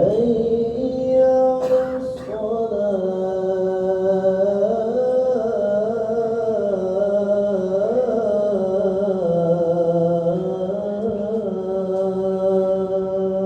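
A man's voice chanting the adhan, the Islamic call to prayer: one long ornamented phrase whose pitch winds slowly up and down, with a brief break about two seconds in.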